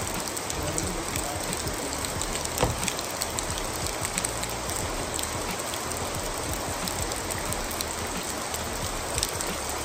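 Steady heavy rain falling, with scattered sharp drop hits close by.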